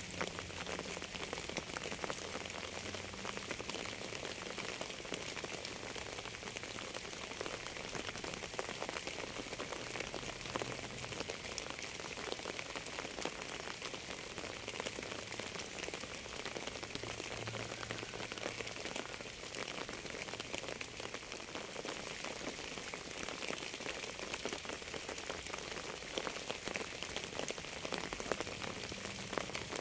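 Steady rain falling, many individual drops ticking over an even hiss.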